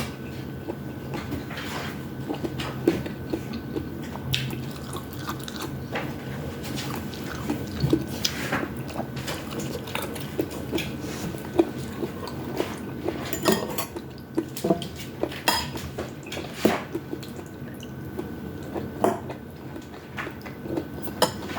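Close-up eating sounds: utensils clicking and knocking against a bowl, with wet mouth sounds of eating udon noodles, scattered irregularly over a faint steady hum.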